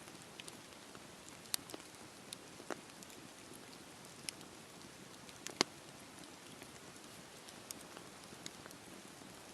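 Campfire burning: a soft steady hiss with irregular sharp crackles and pops, the loudest about five and a half seconds in.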